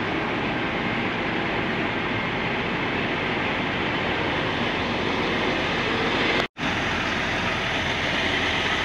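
Steady running noise of a heavy diesel car-hauler truck idling close by, cutting out for an instant about six and a half seconds in.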